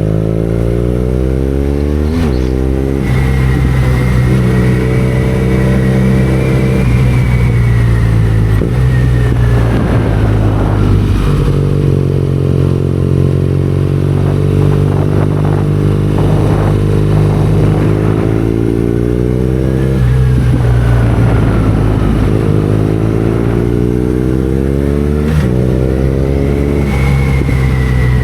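BMW R nineT Scrambler's boxer twin engine running under way. Its note falls as the bike slows, then jumps sharply about two seconds in and again near the end, as on downshifts. It drops in steps around seven seconds, as on an upshift, and holds fairly steady in between.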